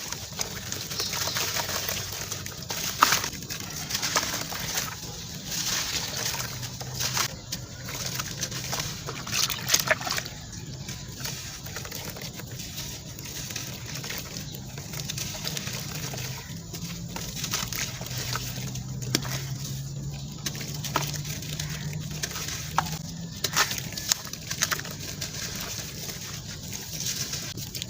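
Crumbly sand-cement lumps being crushed: irregular gritty crunches and sharp crackles, with the loudest snaps about 3 and 10 seconds in.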